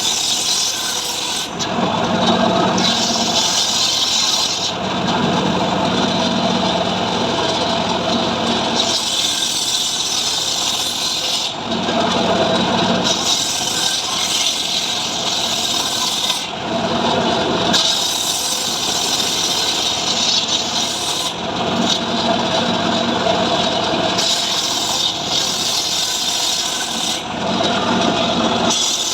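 Power saw cutting dry mahogany wood without a break. Every few seconds the sound switches between a lower, heavier tone and a brighter, higher hiss.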